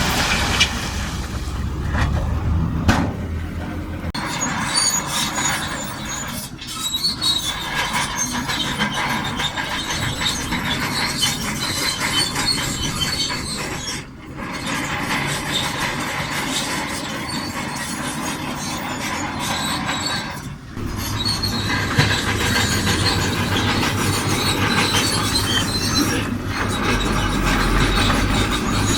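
Shantui DH17C2 crawler bulldozer working, its diesel engine running under load with a high squeal from the steel tracks. The sound drops away briefly three times.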